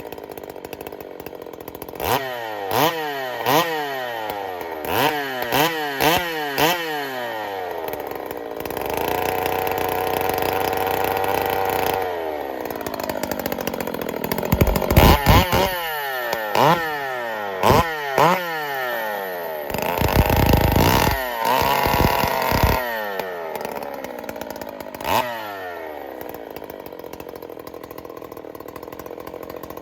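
Freshly rebuilt two-stroke Jonsered 2186 chainsaw running, blipped up in revs again and again and dropping back each time. It is held at high revs for a few seconds twice, then settles to idle near the end.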